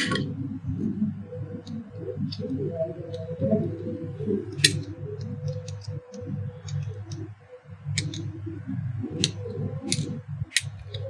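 Scattered sharp clicks and light metallic taps, about a dozen at irregular intervals, as the parts of an opened electric iron are handled and worked on with a hand tool, over low steady background noise.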